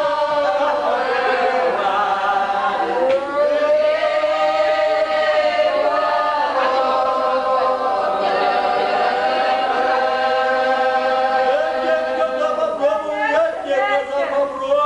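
A group of voices singing a slow, drawn-out chant in the manner of an Orthodox funeral service, with long held notes. It is a mock burial chant.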